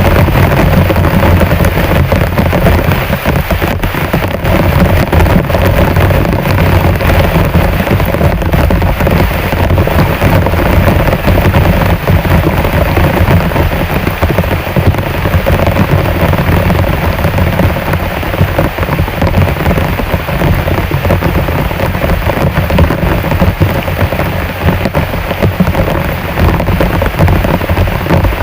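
Heavy rain falling steadily, a loud dense rush of countless drops that does not let up.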